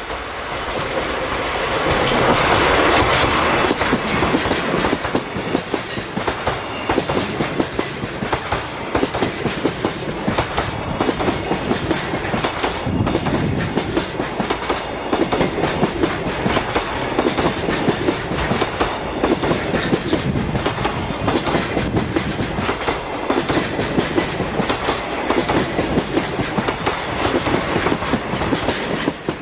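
Freight train of wagons passing close by, its wheels clattering over the rail joints in a rapid, steady clickety-clack, loudest in the first few seconds.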